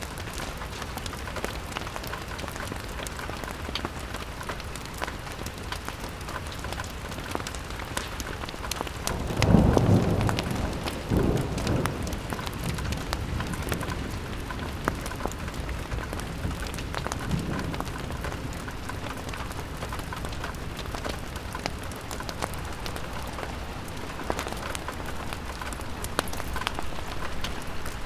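Steady rain pattering on a window, with many small ticks of drops. About ten seconds in a louder low rumble swells and dies away over a few seconds, and a fainter one follows later.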